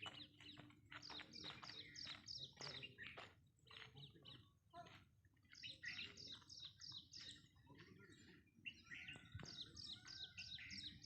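Faint chorus of small birds chirping, many short calls in quick succession, with a brief lull about four seconds in.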